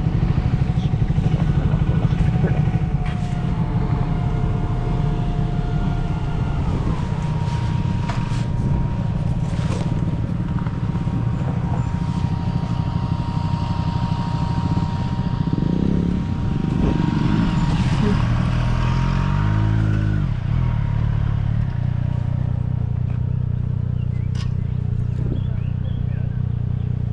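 Triumph Speed 400's single-cylinder engine running steadily at low revs. The revs rise briefly about two-thirds of the way in.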